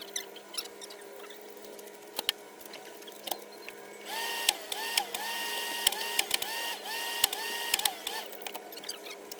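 A small electric motor running in six or seven short bursts, each spinning up, holding, and winding down, with clicks and knocks before and between them.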